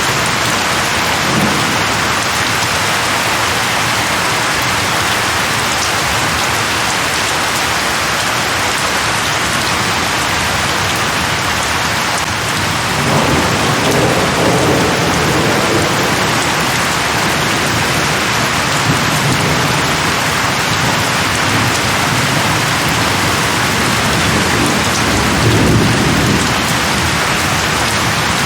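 Steady heavy rain with thunder: a low rumble of thunder rolls in about halfway through, and another swells near the end.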